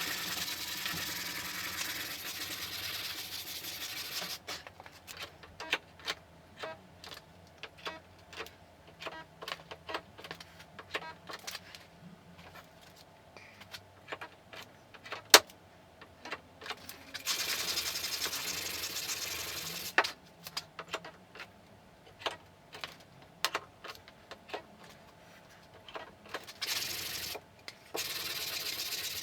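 Sanding on a steel car body panel in stretches of a few seconds, starting and stopping abruptly, with many light taps and clicks in between.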